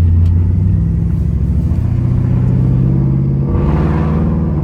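Car engine running as the car pulls away, its note stepping up in pitch about two seconds in, with a short rushing noise near the end. The engine still has a slight miss and hesitation after its overhaul, and the owner says it isn't pulling as it should.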